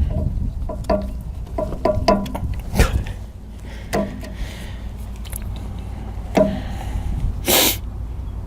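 Hydraulic quick-coupler hoses and their plastic dust caps being handled and connected by hand: a series of sharp clicks and knocks, with one short hiss about seven and a half seconds in, over a steady low rumble.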